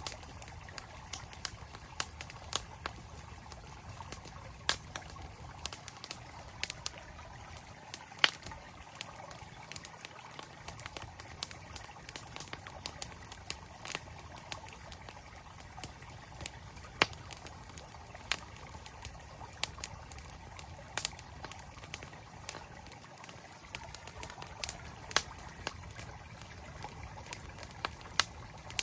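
Campfire crackling, with sharp irregular pops and snaps several times a second, over the steady rush of a flowing stream.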